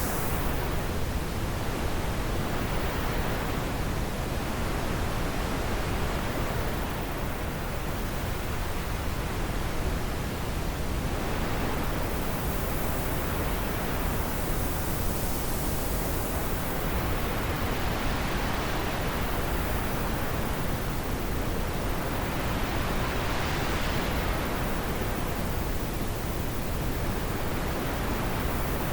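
Steady wind noise, an even hiss whose higher part swells and eases in slow gusts every several seconds.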